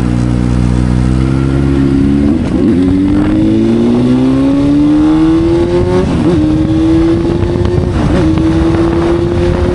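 Motorcycle engine running under way, its note steady at first, then climbing slowly as the bike accelerates, with brief wobbles about two and a half, six and eight seconds in, over wind and road noise.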